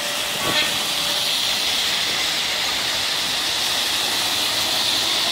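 Heavy rain falling, a steady hiss, mixed with the swish of tyres as traffic drives through the wet street.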